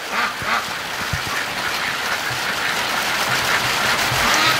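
Heavy rain pouring down steadily. Domestic ducks quack a couple of times at the start and again faintly near the end.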